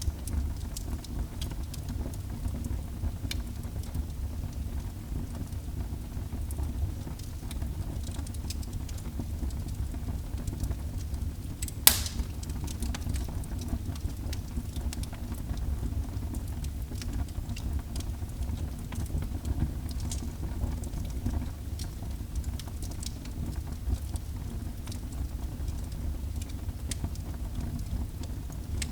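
Fire burning in a fireplace: a steady low rumble with scattered crackles and one loud pop about twelve seconds in.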